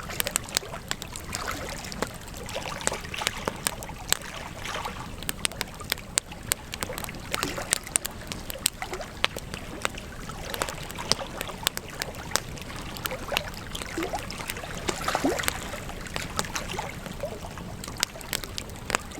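Wood campfire burning: a steady hiss of flame dotted with many sharp crackles and pops, and a few brief hissing spurts.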